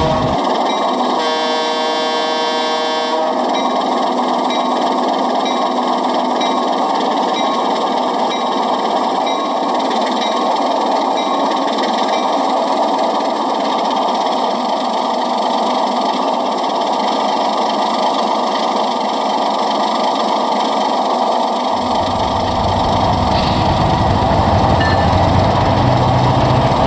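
Sound-equipped model diesel locomotive running steadily, with one horn blast of about two seconds near the start.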